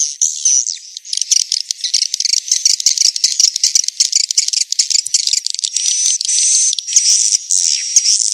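Swiftlet lure recording: a dense, continuous chorus of edible-nest swiftlets twittering, with rapid high-pitched chirps and clicks. There is a brief dip about a second in, and thin held whistling tones come in near the end.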